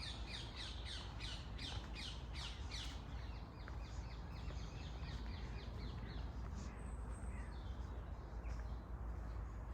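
A bird calling in a quick series of sharp, repeated falling notes, about four a second. The calls are loudest over the first three seconds, then fade out. A steady low rumble runs underneath.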